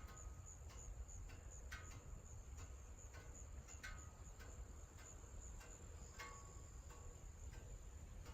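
Crickets trilling faintly: a high, steady, slightly pulsing tone, with a few soft ticks now and then.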